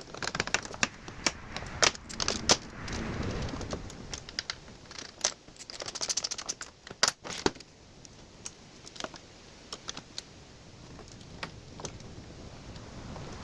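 Light metallic clinks and rattles of small wiring hardware and hand tools being handled, irregular and busy for the first several seconds, then sparser after about eight seconds.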